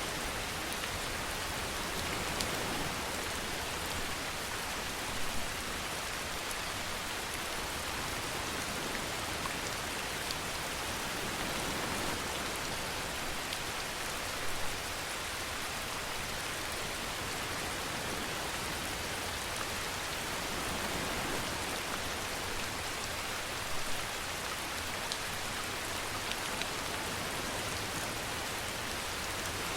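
Steady rain falling, an even hiss with scattered individual drops and a few brief louder spatters.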